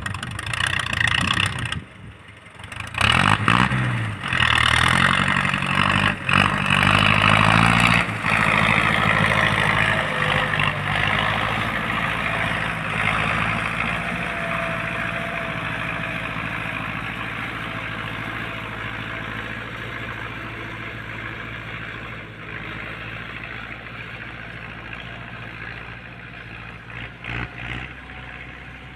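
Tractor engine running, briefly dropping off about two seconds in, then revving up with a rising pitch and running steadily, growing gradually fainter.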